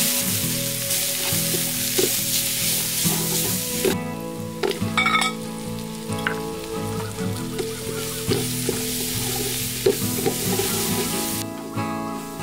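Chopped shallots and garlic sizzling in hot oil in a metal pot, with a utensil stirring and knocking against the pot now and then; the sizzle cuts off near the end. Soft background guitar music plays underneath.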